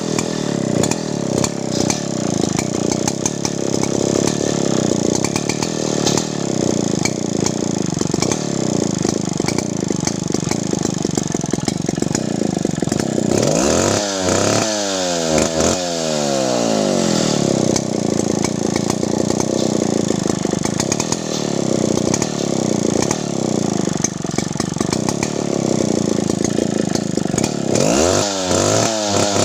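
Two-stroke chainsaw engine running steadily, with a run of quick throttle blips revving it up and down about halfway through and again near the end. The uploader calls the sound very annoying and links it to the chainsaw's CDI ignition.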